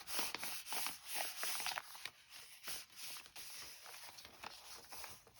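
Paper pages being handled at a work table: a run of quick rustles, light scrapes and crinkles, busiest in the first two seconds, then sparser.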